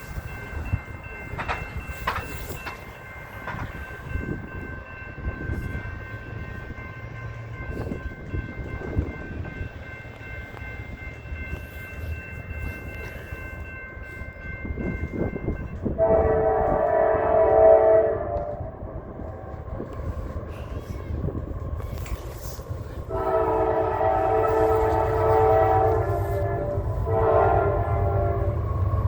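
Diesel locomotive air horn sounding a crossing pattern: a blast about 16 seconds in, a longer one about 23 seconds in, a shorter one right after, and another starting at the end. Under it runs the low rumble of the passing train, with a faint steady high ringing tone during the first half.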